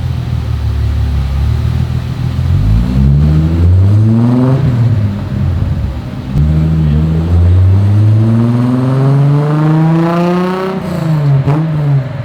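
Toyota Celica Supra MA61's 2.8-litre 5M-GE twin-cam straight-six running on a dyno. It runs low and steady, then revs up briefly about three seconds in. From about six seconds it climbs steadily in pitch through a long power run, and falls sharply as it comes off the throttle near the end.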